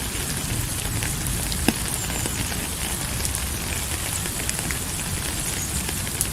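Steady rain falling, a continuous hiss with many small droplet ticks and one sharper drop about a second and a half in.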